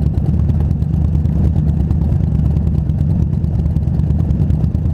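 2019 Indian Scout Bobber's V-twin engine running steadily, a loud even low rumble with no revving.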